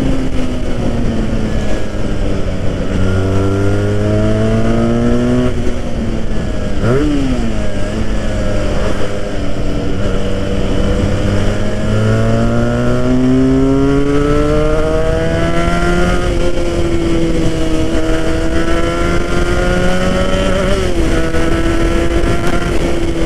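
Benelli 302R's 300 cc parallel-twin engine running under way as the motorcycle is ridden, its pitch climbing with the revs and falling back at gear changes. There is a drop about six seconds in, a quick dip and rise about seven seconds in, and another long climb from about twelve to sixteen seconds.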